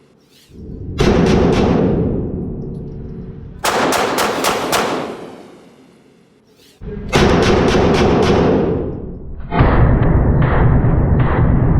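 9mm Glock 19 pistol shots fired in quick strings of a few rounds, each crack ringing out in a reverberant indoor range. From about ten seconds in, a steady low rumble with a regular thump about every two-thirds of a second takes over.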